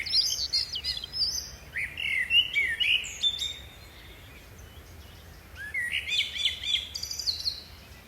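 Songbirds chirping and singing in quick, twittering phrases: a burst of calls, a pause of about two seconds, then a second burst near the end. A faint steady low hum lies underneath.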